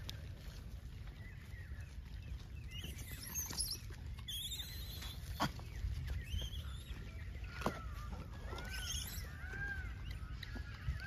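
Birds calling outdoors: high chirps a few seconds in, then a run of repeated arching calls near the end. Under them runs a steady low rumble, with two short sharp clicks midway.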